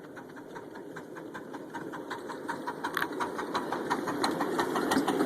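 Ride-on miniature train running on the track, a rapid even beat of about six strokes a second over a low rumble, growing steadily louder as it approaches.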